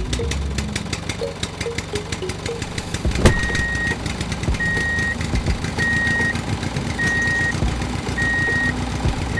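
A vehicle reversing alarm beeps about once a second, starting about three seconds in with a sharp click. It sounds over steady engine-like running noise with rapid clicking.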